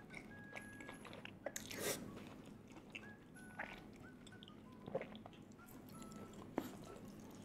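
Close-miked eating of crispy fried chicken coated in Super Ring crumbs: a loud crunching bite about two seconds in, then chewing with scattered crackles and sharp crunches near five and six and a half seconds.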